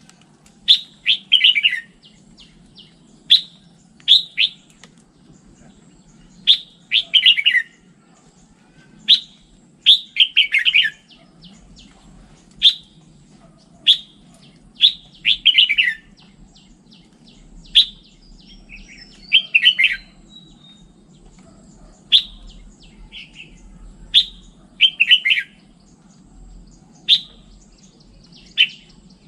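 Red-whiskered bulbul singing: short, loud, clear phrases repeating every second or two, many of them sliding downward in pitch. A faint steady low hum runs underneath.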